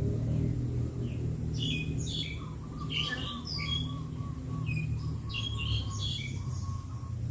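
Several birds chirping and calling in short high notes, with a quick run of repeated notes at one pitch through the middle, over a steady low rumble.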